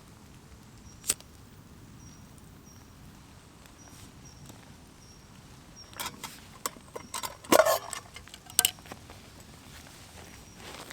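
A single sharp click about a second in, then a cluster of rustling and clicking handling sounds from about six to nine seconds in, over a quiet outdoor background.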